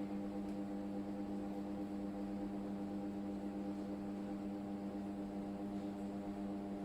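Toshiba AW-A750SM top-load washing machine running with a steady hum made of several held tones, with no knocks or bangs.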